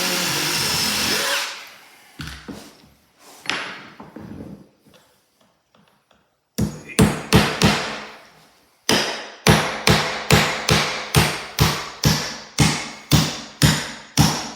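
A power drill running, stopping about a second and a half in. A few scattered knocks follow, then a hammer strikes repeatedly, in a steady run of sharp blows about two to three a second through the second half.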